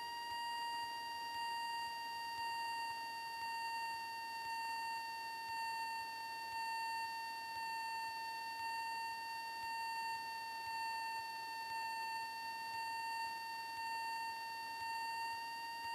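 Steady high-pitched electrical whine in the Cessna 172's cockpit intercom audio, its pitch drifting slightly and its level pulsing gently about once a second. No low engine rumble comes through.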